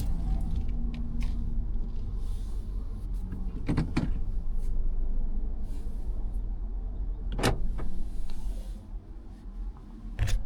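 Inside a 2022 Mazda 3 at a standstill: a low steady rumble with three sharp clicks, about four, seven and ten seconds in. The rumble drops away about nine seconds in.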